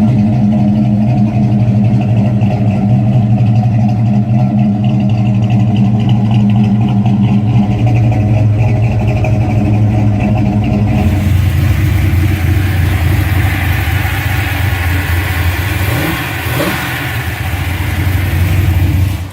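Muscle car engine running at a steady idle; about eleven seconds in the sound cuts abruptly to a brighter, noisier engine run with a few short rises in pitch near the end.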